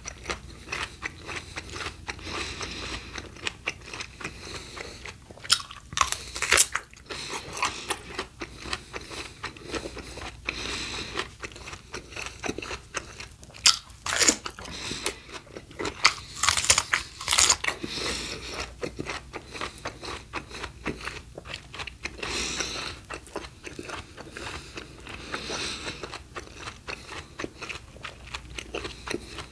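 Close-miked biting and chewing of crisp raw fruit and vegetables: a steady run of sharp crunches, the loudest bites about halfway through and a few seconds later.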